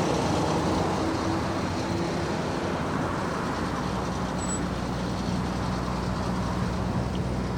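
Steady road and engine noise heard inside a moving car, with a constant low hum underneath.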